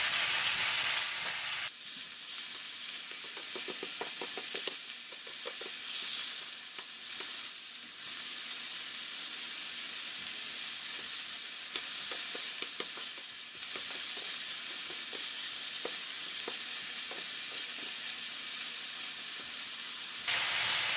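Chicken pieces sizzling in hot oil in a pan with garlic and onion, a steady frying hiss. Short clicks and scrapes come from a spatula against the pan as the chicken is stirred, several of them in two spells.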